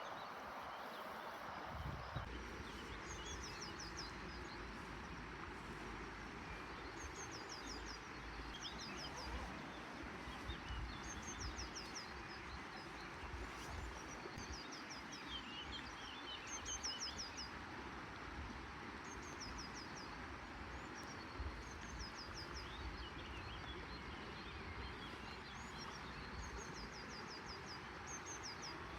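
A small songbird repeating a short, high phrase of about five quick notes every three to four seconds, over a steady rush of outdoor noise with low rumbling underneath.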